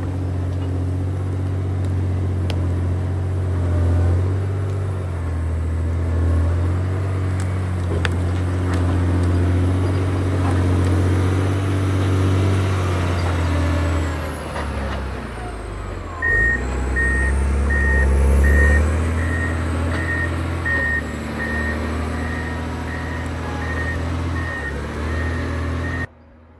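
John Deere 670 motor grader's diesel engine running steadily, with a dip about halfway through. Its reversing alarm then beeps evenly, about three beeps every two seconds, as the grader backs up. The sound cuts off suddenly near the end.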